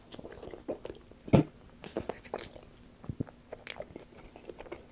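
Close-miked biting and chewing of a slice of Pizza Hut pizza: a run of short, wet mouth clicks and smacks. The loudest comes about a second and a half in.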